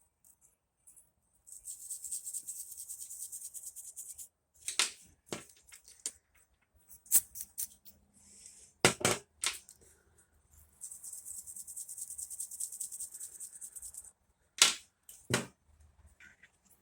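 Aerosol electronic contact cleaner spraying in two hissing bursts of about three seconds each, with several sharp clicks and knocks in between and after.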